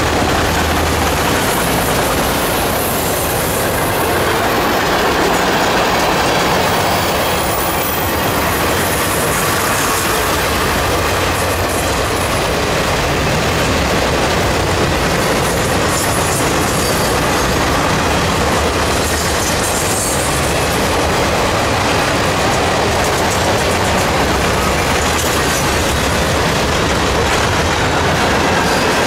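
Freight cars of a CSX train rolling past at close range: a loud, steady noise of steel wheels running on the rails, without a break.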